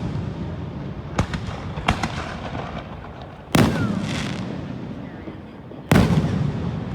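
Aerial fireworks shells bursting in the sky. Two loud booms come about three and a half and six seconds in, with two lighter, sharper pops about one and two seconds in, and each boom trails off in a long rumbling echo.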